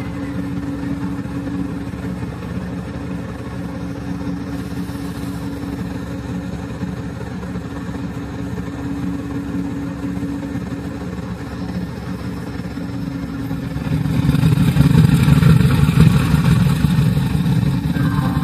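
WDG4G diesel locomotive's 12-cylinder GE GEVO engine running steadily at idle. About fourteen seconds in it gets markedly louder.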